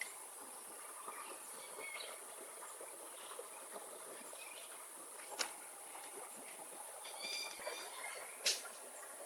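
Outdoor forest ambience: a steady high hiss, a few short bird chirps, and two sharp cracks about three seconds apart.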